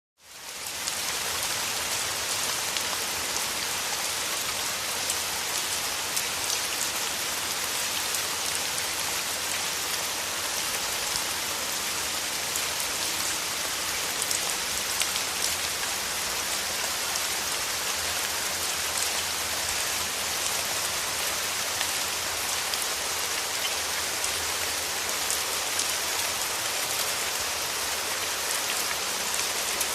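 Steady rain falling: an even hiss with a dense patter of drops. It fades in from a brief silence over the first second, then holds level.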